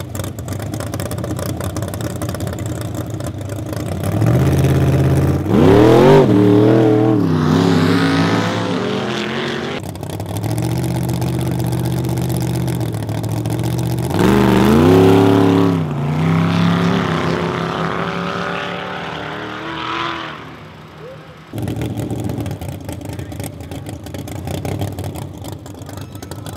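Supercharged drag car engine idling, revved up hard twice, about five seconds in and again about halfway through, with the pitch climbing and falling back to idle each time.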